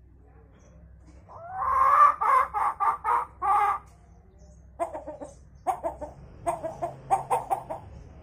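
Hill myna mimicking a hen's clucking and cackling. First comes one longer, stuttering cackle, then about a second later a run of short, quick clucks.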